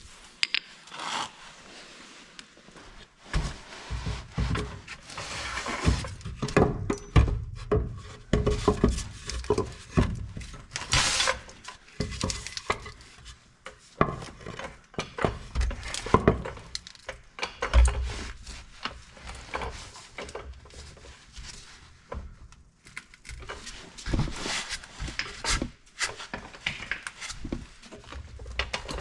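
Irregular knocks, clinks and scraping from hands-on work with tools and metal truck parts, with loud sharp strikes here and there.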